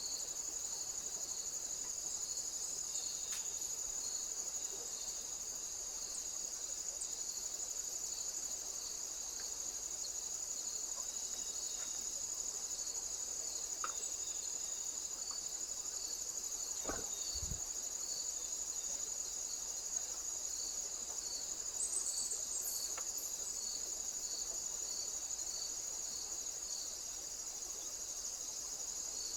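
Insects trilling continuously at a high pitch, with a second insect chirping in a steady rhythm of about two chirps a second underneath. A brief low sound comes about seventeen seconds in.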